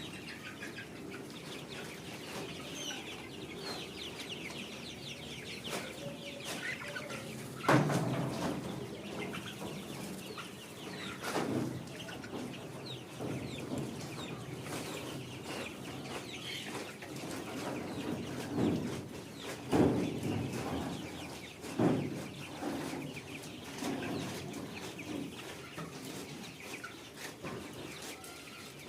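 A flock of Sonali chickens clucking and chirping steadily, with several louder sudden thumps spaced through the middle.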